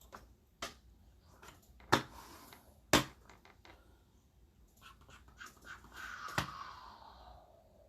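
Sharp clicks and taps from handling sports-card boxes and packaging, two louder snaps about two and three seconds in, with a fainter drawn-out sound falling in pitch near the end.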